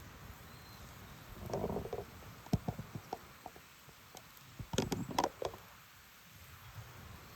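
A scattering of light clicks and knocks, in two clusters about two and a half and five seconds in, over a low steady rumble.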